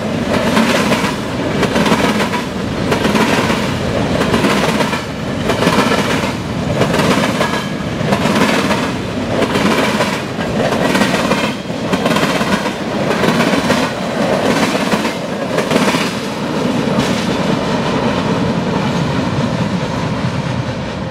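Freight train of covered grain hopper cars passing at speed, its wheels clacking over the track in a steady rhythm about every three-quarters of a second above a continuous rumble. The clacks give way to a steadier rumble near the end as the last cars pass.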